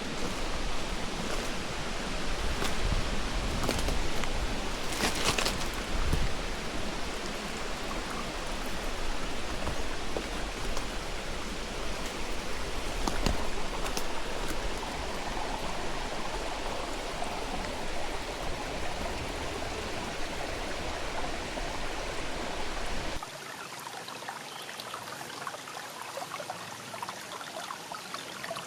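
Steady rushing noise of water, with a few faint sharp ticks. A low rumble underneath stops abruptly about 23 seconds in.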